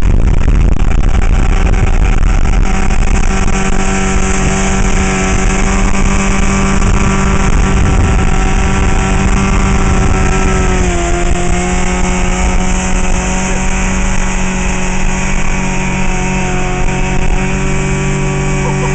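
Mercury 150 outboard motor pushing a 17-foot speedboat along at speed, running at a steady pitch over a heavy rush of noise. About halfway through the engine note drops briefly, then holds steady again.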